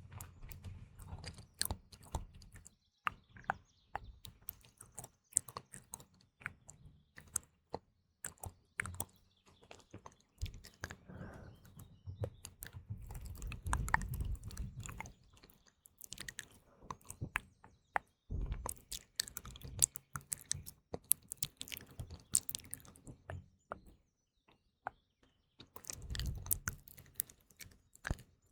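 ASMR mouth sounds close to the microphone: irregular wet clicks and smacks of lips and tongue, with faint birdsong behind.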